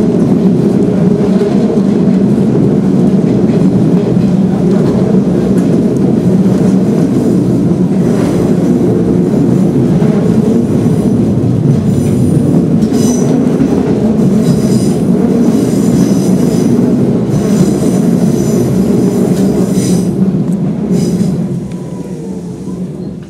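Nishitetsu 2000 series electric train running at speed, heard from the driver's cab: a loud, steady rumble of motors and wheels on rail. From about halfway through the wheels squeal high and shrill for several seconds as the train takes a curve. Near the end the running noise drops away.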